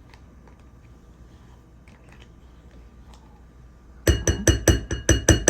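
A metal spoon clinking rapidly against a bowl, about ten ringing strikes in under two seconds, starting about four seconds in. Before that there are only a few faint small clicks.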